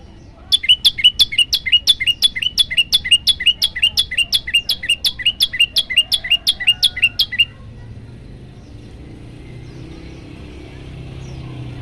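Prenjak lumut, a prinia, singing a fast, even run of sharp, loud chirps, about five a second, for some seven seconds, then breaking off suddenly. A low background rumble follows.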